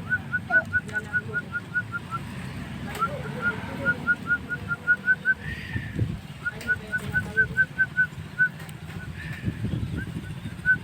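Javan myna (jalak kebo) calling in runs of rapid, evenly repeated short chirps, about five a second, three runs broken by short pauses.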